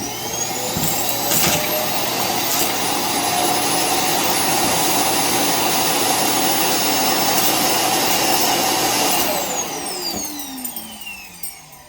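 Roomba self-emptying base's vacuum motor sucking the robot's dust bin out into the bag in its top. It finishes spinning up with a rising whine and runs steadily, then winds down with a falling whine over the last two to three seconds.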